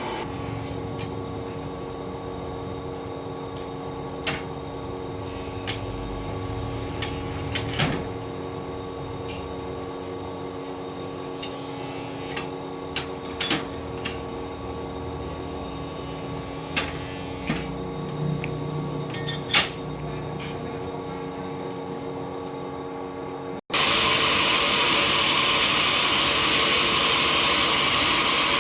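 Sawmill machinery running with a steady hum and scattered sharp knocks and clicks. Near the end the sound cuts abruptly to a much louder, steady rushing noise of machinery at work.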